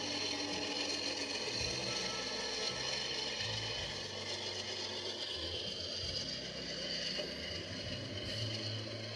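Canadian Pacific freight train rolling past at a grade crossing: diesel locomotives and freight cars passing with a steady mechanical clatter, the horn having just stopped.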